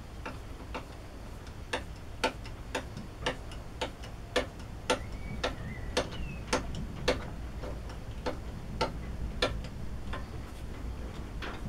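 An even series of light, sharp ticks, about two a second, growing louder through the middle and fading near the end.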